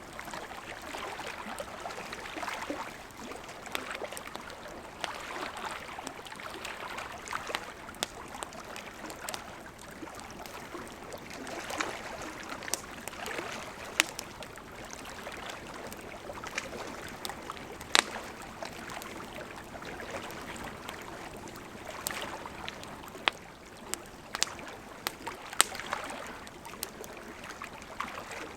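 Wood campfire crackling with scattered sharp pops, a few of them much louder, over small lake waves lapping at the shore in soft swells.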